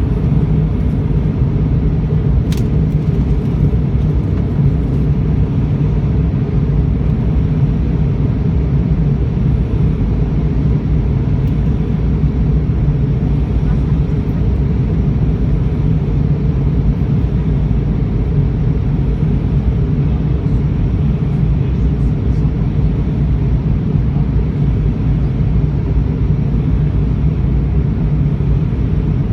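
Steady cabin noise inside an Airbus A319-114 on approach: the deep, even roar of its CFM56 engines and airflow over the fuselage heard from a window seat over the wing. A single faint click comes about two and a half seconds in.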